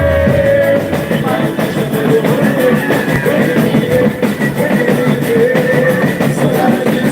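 Live boi-bumbá toada music: dense, loud drumming under a sustained melody line, running without a break.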